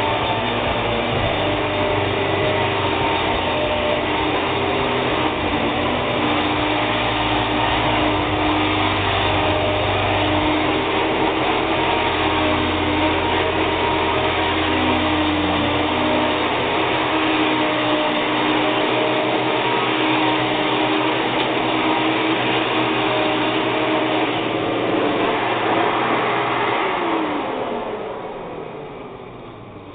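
Hoover WindTunnel upright vacuum cleaner running steadily with a loud motor whine, a sound the owner thinks means the motor is going to go bad. Near the end it is switched off and the motor winds down with a falling whine.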